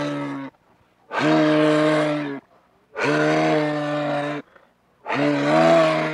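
Moose calling: a long, low, drawn-out call repeated with short pauses. The tail of one call is followed by three more, each lasting over a second.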